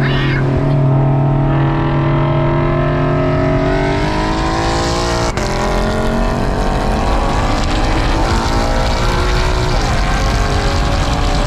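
Car engine running hard under acceleration, its pitch climbing over a few seconds, with a brief sharp dip in sound about five seconds in before it carries on.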